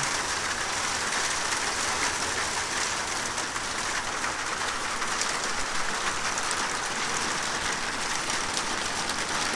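Heavy rain mixed with small hail drumming on a metal roof overhead: a steady, dense patter sprinkled with fine sharp ticks.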